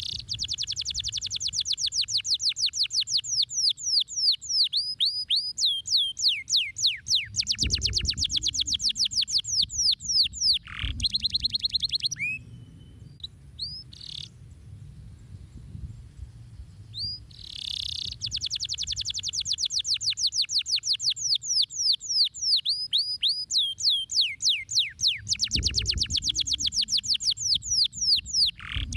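Domestic canary singing long, fast trills of rapidly repeated high notes mixed with swooping whistled sweeps, in two long phrases with a pause of a few seconds in the middle.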